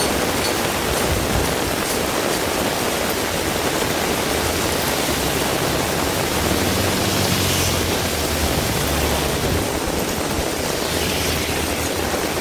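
Heavy rain pouring steadily. About halfway through, a vehicle passes with a low engine rumble.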